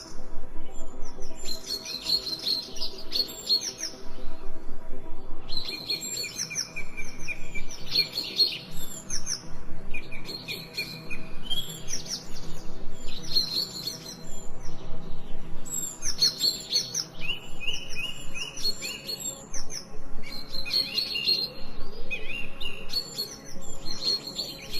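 Songbirds chirping and trilling in repeated bouts of a second or two, with quick high notes and short runs, over a faint steady low hum.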